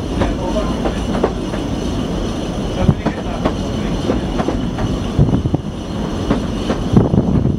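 A narrow-gauge heritage train heard from aboard while it runs along the track: a steady rumble broken by irregular clicks and knocks from the wheels and the rattling coach.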